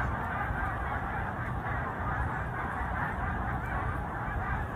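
A huge flock of migrating snow geese calling, a steady, continuous din of countless overlapping honks.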